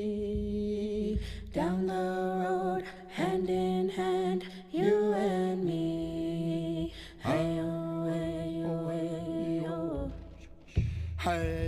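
Unaccompanied wordless singing: a single voice holds long, slow notes with small slides between them, in about five phrases broken by short breaths.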